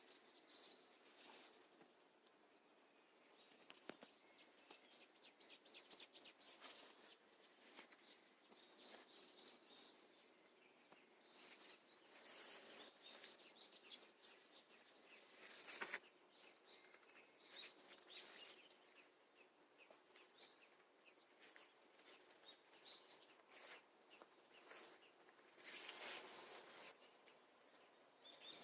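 Faint birdsong: several birds giving short chirps and rapid high trills, scattered on and off throughout.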